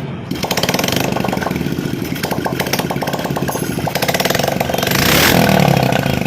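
Honda XRM125 Fi's single-cylinder four-stroke engine running at a fast idle, revved up briefly about five seconds in.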